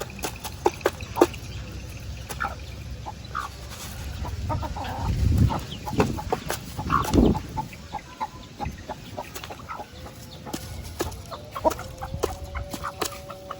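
Chickens clucking: many short, sharp clucks scattered throughout, with a low rumble about five to seven seconds in and a steady held call near the end.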